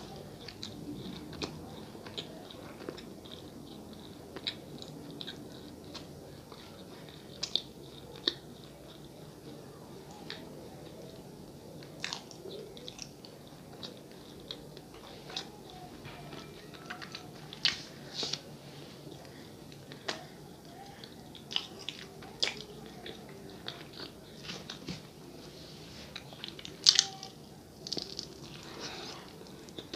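A person chewing a soft sonho, a sweet bun filled with goiabada, with wet mouth smacks and short clicks throughout. A louder bite comes near the end.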